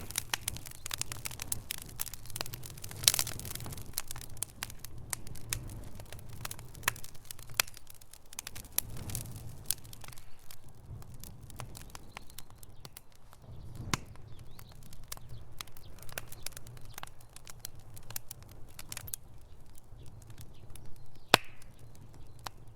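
Wood fire crackling in a fireplace: frequent sharp pops and snaps over a low steady rumble of the flames, with louder single pops about three seconds in, near fourteen seconds and near the end.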